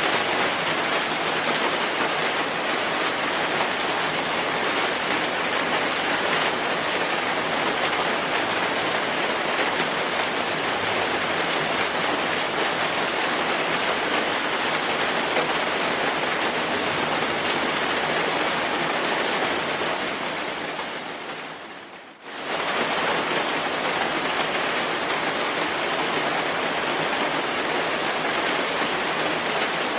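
Steady, dense rainfall hiss. About two-thirds of the way through, it fades down briefly and snaps straight back to full level.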